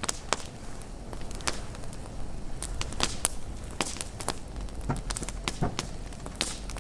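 Wood fire crackling and popping, with irregular sharp snaps over a low rumble.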